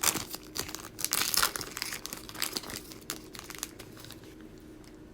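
Crinkly wrapper of a trading card pack being torn open and handled, with a run of sharp crackles that dies away after about three and a half seconds.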